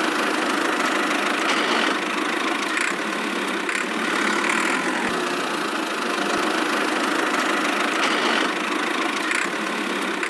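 A miniature model vehicle's small motor running steadily, with a few faint brighter surges along the way.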